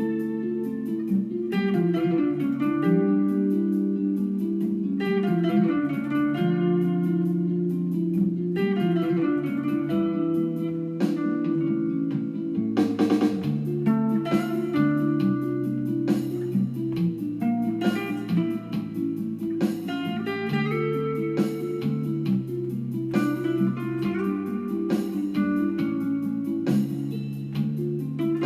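Instrumental guitar music: plucked guitar notes over a moving bass line, with no vocals.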